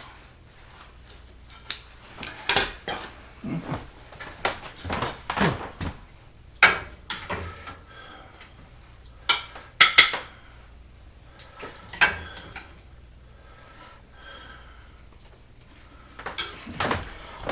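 Kitchen utensils clinking and scraping against a pan and a dinner plate as chicken is lifted out and plated. The knocks come irregularly, a dozen or so, some with a short metallic ring.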